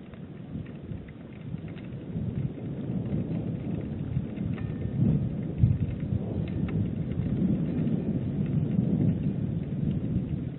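Heavy rain pelting the nest camera's microphone: a dense, fluttering low drumming with scattered small ticks of drops, and one louder thump a little past halfway.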